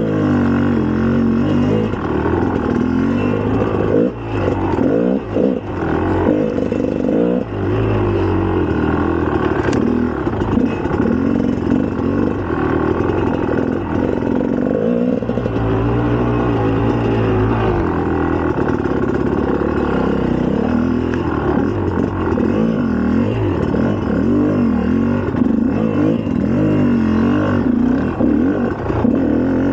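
2004 GasGas EC300's 300 cc two-stroke single-cylinder engine running under way, its revs rising and falling as the throttle is worked, with brief dips about four, five and seven seconds in.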